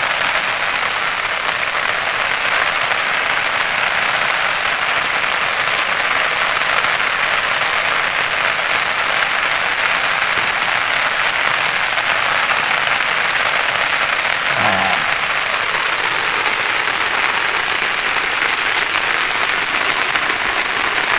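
Rain falling steadily on open flood water, an even hiss of drops on the surface.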